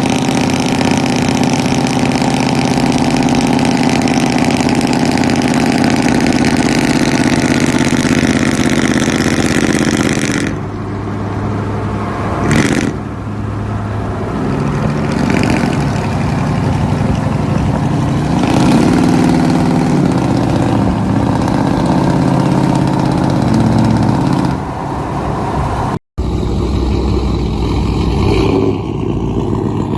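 Loud aftermarket pickup-truck exhausts, several clips cut together. A steady engine drone plays first, and after an abrupt cut about ten seconds in an engine revs up and down. A short dropout comes near the end, and then another engine runs.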